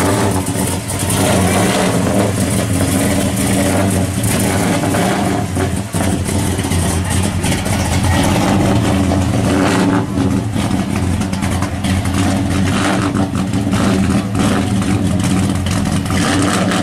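Engine of a 1955 Chevy gasser running loudly and steadily at low revs as the car drives slowly away.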